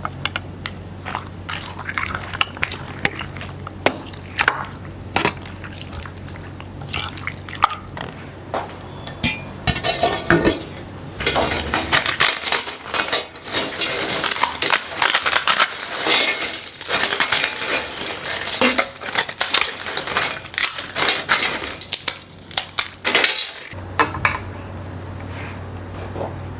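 Dishes and metal cutlery clinking and clattering. The knocks are scattered at first, then become a dense, busy clatter for about ten seconds in the middle before easing off again.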